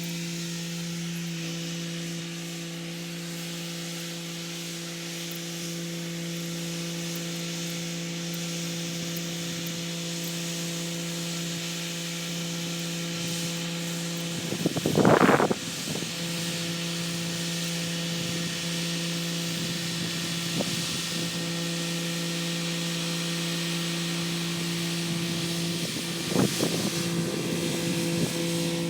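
Kubota SL35 tractor engine running at a steady pitch with a hiss from the rotary tiller working the soil. A short loud burst of noise about halfway through, and a smaller one near the end.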